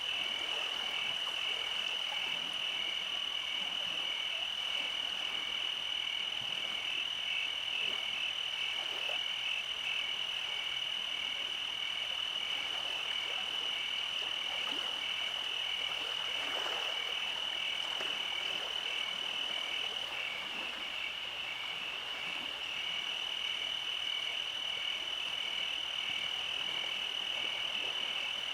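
Night chorus of frogs and insects: a steady high-pitched trill with a rhythmic pulsing call just beneath it, unbroken throughout.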